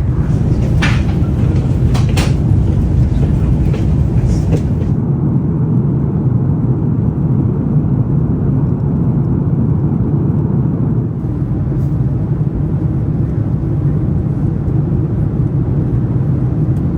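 Steady low rumble of an Airbus A340-600 heard inside the cabin, from the engines and the air rushing past the fuselage. A few light clicks come near the start, and the higher hiss drops away about five seconds in.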